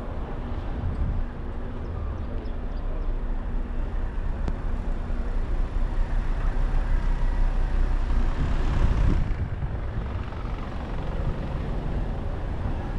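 Steady road and engine rumble of a car driving, swelling for a few seconds and easing a little about nine seconds in.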